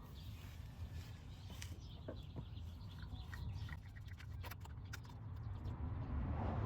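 Quiet outdoor background: a low steady hum with faint bird chirps and a few light clicks.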